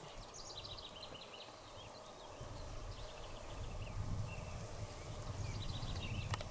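A songbird singing three short phrases of quick high notes that step downward in pitch, with a low wind rumble on the microphone.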